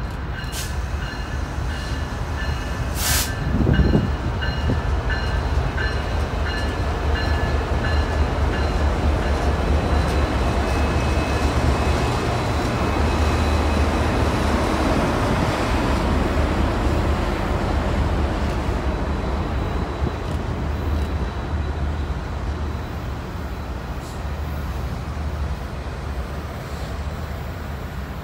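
Union Pacific passenger special led by an SD70AH-T4 diesel locomotive passing close by, then its heritage passenger cars rolling past with a steady rumble of wheels on rail. A faint whine from the locomotives fades over the first few seconds, and a louder thump comes about four seconds in.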